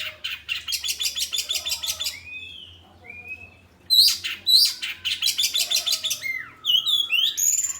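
Oriental magpie-robin (kacer) singing loudly: sharp downward-swooping notes, fast strings of repeated high chirps, and short sliding whistles, in several phrases with brief gaps.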